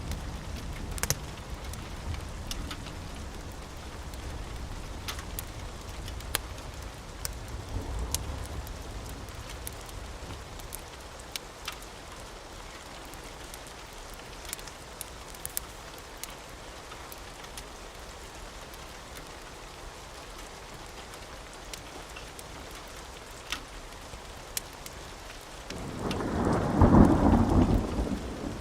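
Steady rain with a low rumble of thunder in the first several seconds, then a loud clap and rumble of thunder near the end. Scattered sharp crackles from a wood fire run through it.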